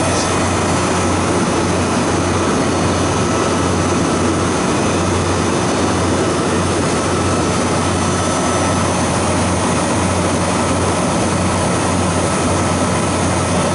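Refrigeration compressor running steadily with a constant low hum and an even mechanical rush, while the system is charged with refrigerant vapour through the suction side.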